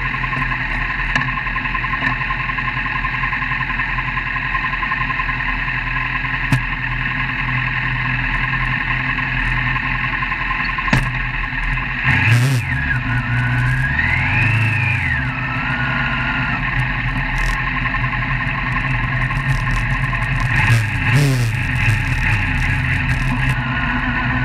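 Motor vehicle engine running steadily under road noise while driving. About halfway through, and again near the end, the engine pitch rises and falls as the revs change.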